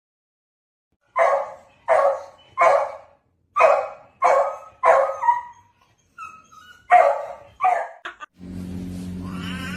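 A dog barking: about eight short, sharp barks in quick succession, with a brief pause partway through. A steady low hum comes in near the end.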